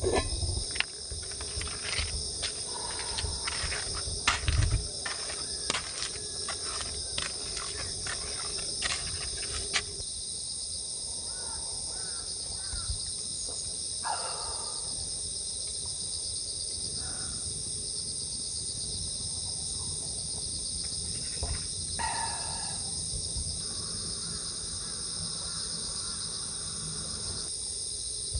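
Crickets chirping in a steady, unbroken chorus, with scattered light taps and knocks and a couple of dull thumps during the first ten seconds.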